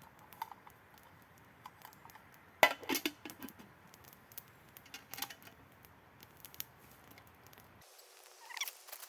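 Wood campfire crackling: scattered sharp pops and clicks, with a louder cluster of snaps and knocks about two and a half to three and a half seconds in.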